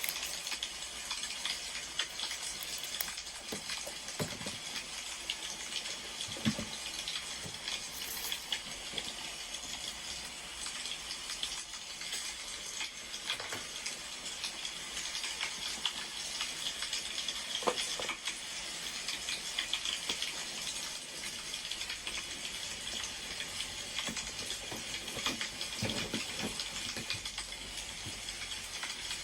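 Wood fire crackling, a steady hiss with scattered sharp pops.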